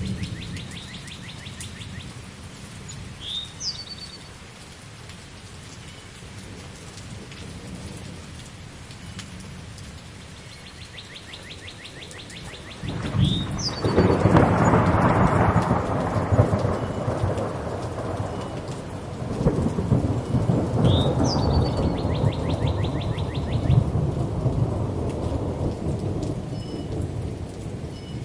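Steady rain, with a roll of thunder that comes in about halfway through and rumbles on for about ten seconds, swelling again partway. A bird gives a short trill and chirp three times, about nine seconds apart.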